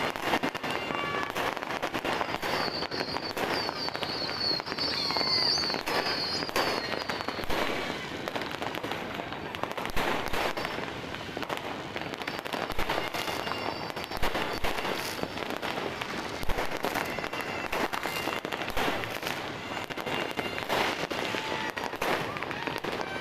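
Many fireworks and firecrackers going off at once in a dense, continuous crackle of bangs, with a high warbling whistle a few seconds in and several deeper booms in the middle.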